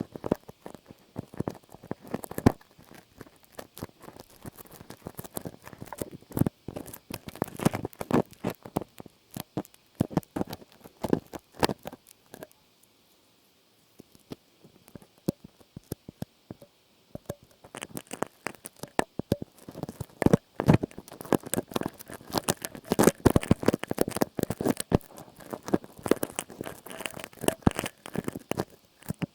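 Close-miked ASMR trigger sounds: rapid, irregular crackly taps and rustles, with a brief pause about halfway through.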